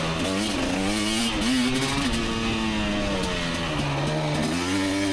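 KTM 250 XC two-stroke dirt bike engine revving up and down as the throttle is worked on the trail, its pitch climbing and dropping several times.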